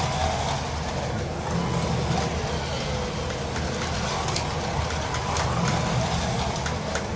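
Carrera Digital 132 1/32-scale slot cars racing around the track, their small electric motors running with a steady hum, with scattered sharp clicks throughout.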